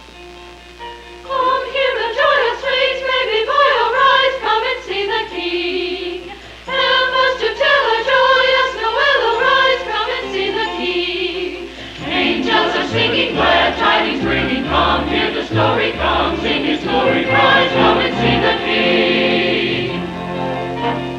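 Church chancel choir singing with accompaniment. A soft held accompaniment is heard first, the choir comes in after about a second, and from about twelve seconds in a fuller accompaniment with low bass notes joins the singing.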